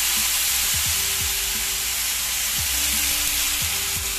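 Toasted rice and tomato purée frying in hot oil in a pan, a loud, steady sizzle, with short scrapes of a stirring spoon about once a second.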